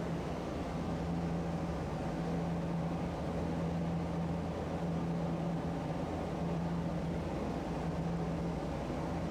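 Tosaden streetcar running, a steady rumble with a low hum that breaks off briefly every second or so.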